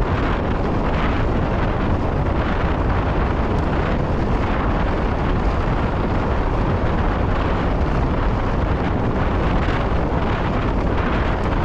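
Wind buffeting a chest-mounted GoPro's microphone during a mountain bike ride: a steady, loud rumbling noise with no windscreen on the mic.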